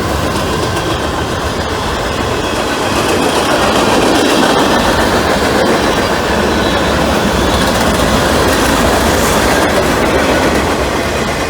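Freight train cars rolling past on the rails: a steady, loud rumble and clatter of steel wheels.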